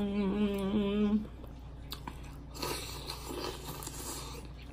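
A closed-mouth hummed "mmm" held for about a second, then soft chewing and mouth sounds of a person eating seafood with her fingers.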